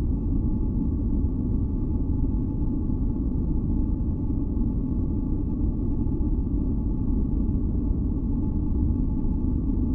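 Steady, deep synthetic background noise, like brown noise, with faint steady high hums layered over it, unchanging throughout.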